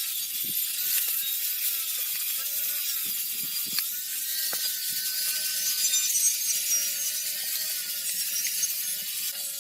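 Steady mechanical ratcheting and rasping from tool work on the diesel engine, with a few scattered clicks.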